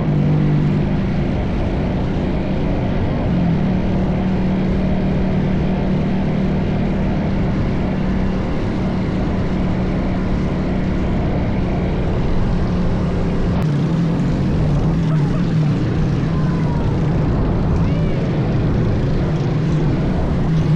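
Minibike engine running at a fairly steady throttle while riding, with rumbling wind noise on the microphone underneath.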